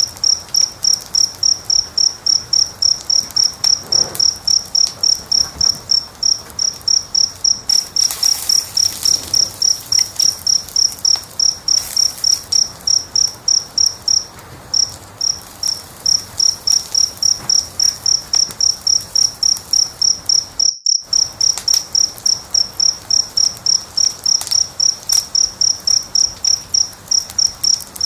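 A cricket chirping steadily at about three high chirps a second, over faint fire crackle. The sound drops out for a moment about two-thirds of the way through.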